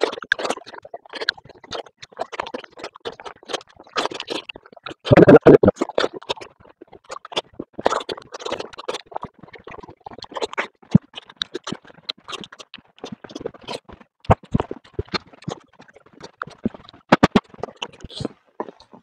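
Close-up eating sounds: chewing and crunching roasted fish and rice, a string of sharp clicks and mouth smacks at an uneven pace, with one louder, longer noise about five seconds in.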